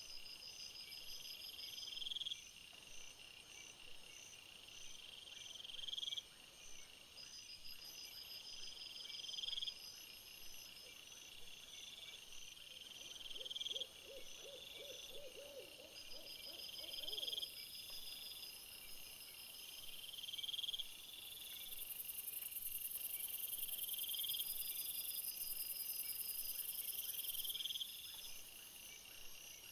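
Night insect chorus of crickets and bush-crickets: a trill that swells and breaks off about every two seconds, over faster high chirping pulses, with a thin high buzz joining in the second half. About halfway, a brief low rattling call of quick pulses rises slightly in pitch.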